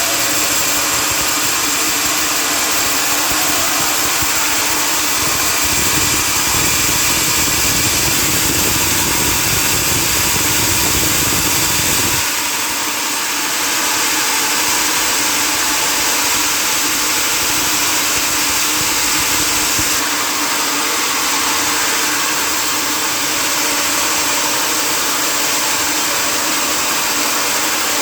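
Sawmill machinery running steadily: a motor with a continuous hiss over it. The low rumble grows heavier about six seconds in, then drops away suddenly about twelve seconds in.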